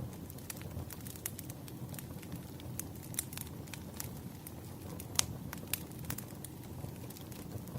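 Campfire crackling: a steady low rumble of burning with many small, sharp pops scattered irregularly. The loudest pop comes about five seconds in.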